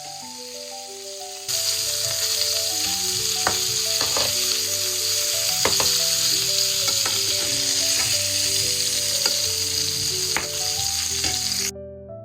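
Food sizzling in a hot frying pan, with a few sharp taps of a utensil as it is stirred. The sizzle starts suddenly about a second and a half in and cuts off just before the end.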